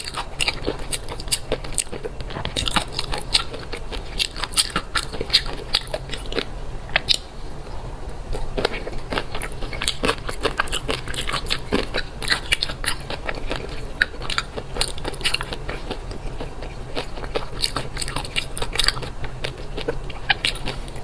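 Close-miked chewing of fish roe: a dense, irregular run of small sharp pops and clicks as the roe pearls burst in the mouth.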